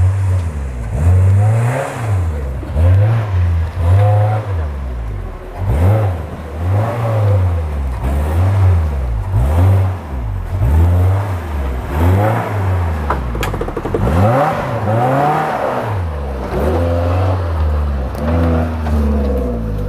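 Off-road 4x4's engine revved hard over and over, its pitch climbing and dropping about once a second.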